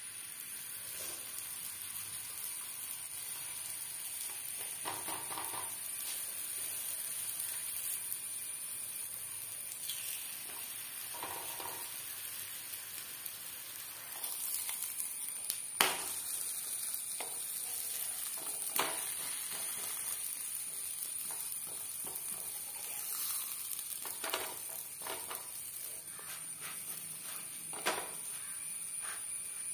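Wheat parottas sizzling on a hot tawa: a steady hiss, with a few sharp taps and knocks as the breads are laid down and handled, the loudest about halfway through.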